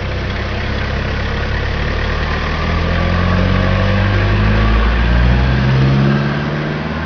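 Toyota TownAce truck engine running, revving up through the middle and easing back down near the end.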